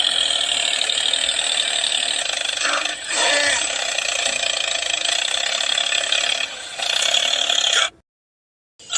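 Small geared electric motor of a DIY toy tractor running steadily with a dense whirring rattle. It dips briefly twice and cuts off shortly before the end.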